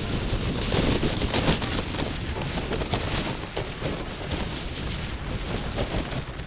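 Wind buffeting an outdoor microphone: a steady low rumble and hiss, with scattered sharp knocks throughout.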